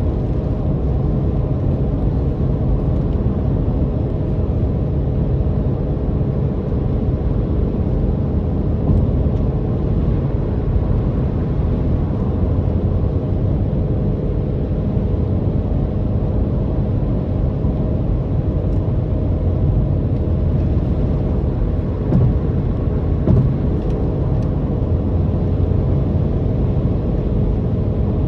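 Car on the move: the engine drones steadily, mixed with road and tyre rumble.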